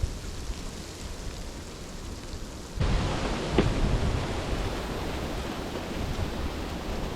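Steady noise of rain and wind, heavy in the low end, which jumps suddenly louder about three seconds in.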